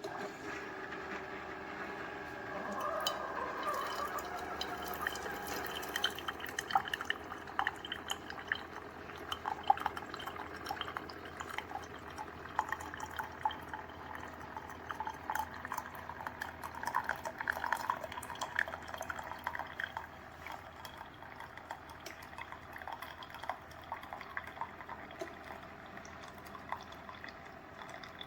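CHULUX mini single-serve coffee maker brewing: hot water trickling and dripping into the cup, with a low hum from the machine. The flow picks up a couple of seconds in and tapers off about twenty seconds in.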